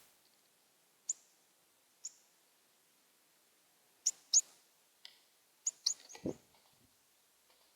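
Northern cardinal giving short, sharp, high chip calls, about eight of them at irregular intervals. A dull low thump comes a little after six seconds in.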